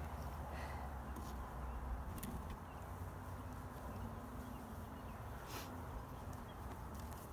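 Honeybees buzzing faintly around an open hive. A few short clicks and knocks come from the wooden hive frames being handled.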